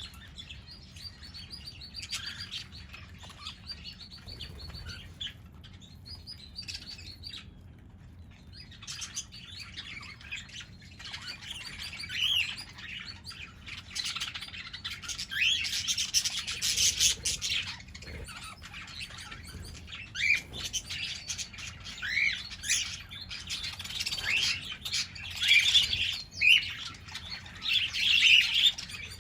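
A flock of pet parrots chirping and calling over one another, with many short rising chirps; the chatter grows busier and louder from about halfway.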